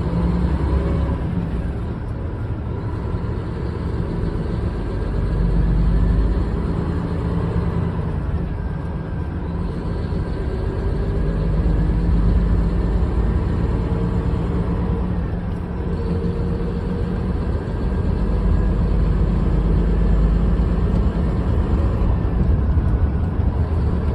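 Large truck's diesel engine running steadily, a low rumble that swells and eases slightly over the seconds.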